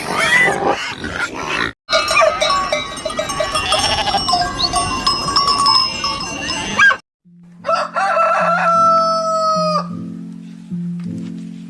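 Farm animal calls cut one after another: bleating and clucking, then a rooster crowing, with a sudden break about two seconds in and a brief gap near the middle.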